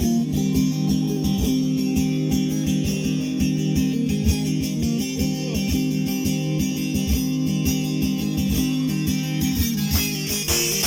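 Bağlama (Turkish long-necked saz) playing an instrumental semah melody: quick, even plucked strokes over steadily ringing strings.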